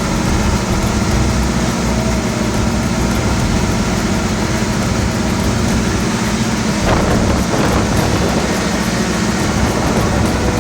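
A fishing boat's inboard engine running steadily at a constant speed during an engine test.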